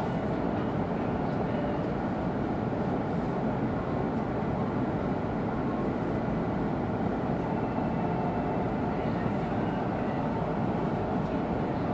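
Steady running noise inside an E2 series Shinkansen passenger car: an even rumble and hiss from the train in motion, without change.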